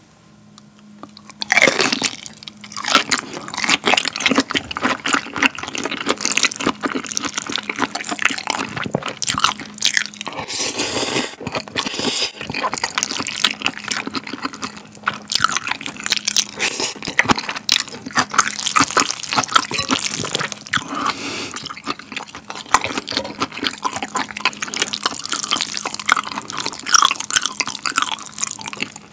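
Close-miked mouth sounds of eating raw black tiger shrimp and spicy cold noodles: dense wet chewing, smacking and sticky clicks throughout.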